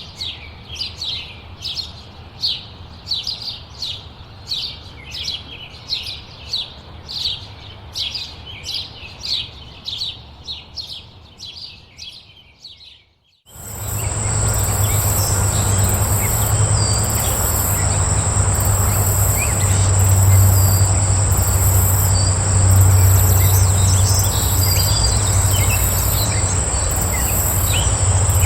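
A songbird repeating a short downward-sweeping chirp about twice a second. About halfway through it cuts abruptly to a steady high insect drone with a pulsing buzz above it, over a low rumble and scattered faint chirps.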